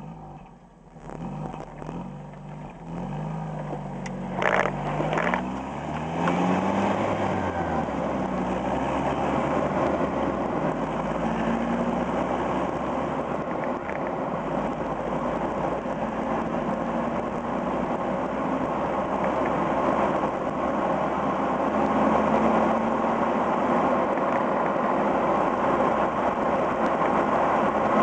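Toyota Echo's four-cylinder exhaust through its original stock muffler at 412,700 miles, heard right at the tailpipe. For the first several seconds the revs rise and fall as the car pulls away, with a single sharp knock about four and a half seconds in. It then settles into a steady drone under an even rushing noise as the car cruises.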